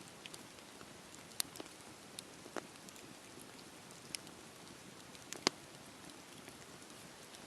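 Wood campfire burning with a soft steady hiss and irregular sharp crackles and pops, the loudest pop about five and a half seconds in.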